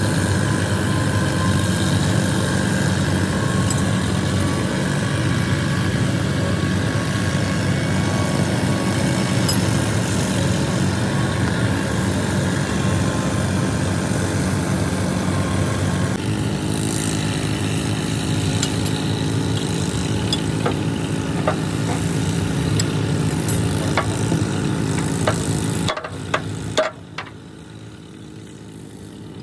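Engine running steadily at idle. Sharp metallic clicks and knocks come over it from about halfway through, and the engine cuts off a few seconds before the end, leaving a quieter stretch with a few more clicks.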